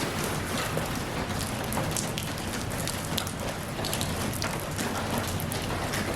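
Steady rain falling, a continuous hiss with many separate drops ticking on a hard surface.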